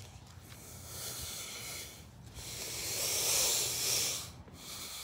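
Two swells of hissing noise, the second longer and louder.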